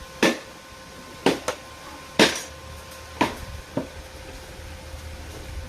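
A hammer striking steel six times at an uneven pace, each blow ringing briefly, the loudest about two seconds in. A faint steady hum runs underneath.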